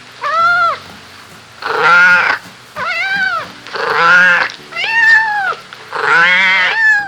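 Kitten meowing repeatedly: about six high-pitched meows, each rising and then falling in pitch, with short pauses between.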